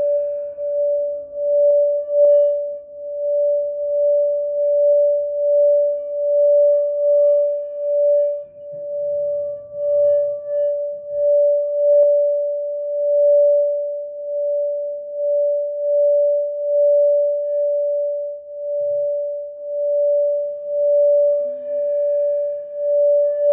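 A sacral chakra singing bowl sings with one steady, sustained tone. Its loudness swells and eases about once a second, and there is a light tap about halfway through.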